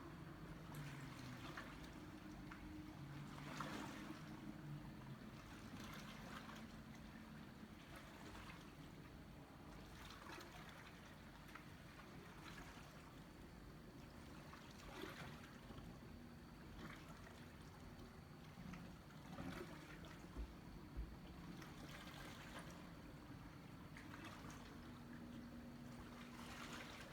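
Faint lake water lapping and trickling, with the low hum of a distant boat motor.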